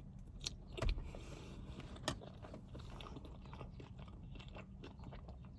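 A person chewing and biting food, with a few sharp crunchy clicks and many smaller mouth sounds.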